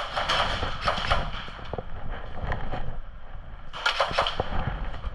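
Airsoft guns firing in rapid strings of sharp cracks, one burst in the first second or so and another about four seconds in.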